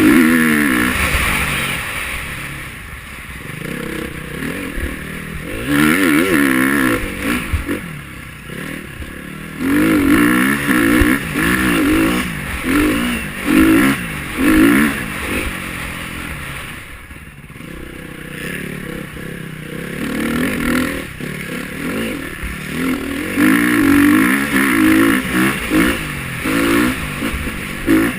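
KTM 350 XC-F's single-cylinder four-stroke engine being ridden hard, its pitch climbing and falling back again and again in repeated bursts of throttle.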